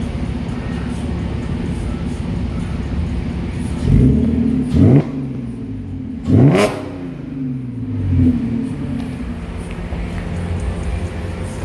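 Car engine running at a steady idle, with quick revs about four, five and six and a half seconds in, the pitch sweeping up and falling back each time.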